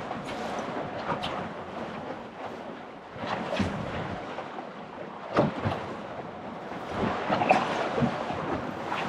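Strong wind buffeting the microphone over waves slapping against an anchored boat, with a few sharp knocks.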